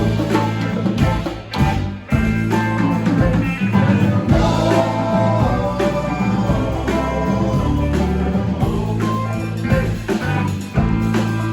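Live rock band playing, with guitar prominent over bass and drums; the music dips briefly about two seconds in before carrying on.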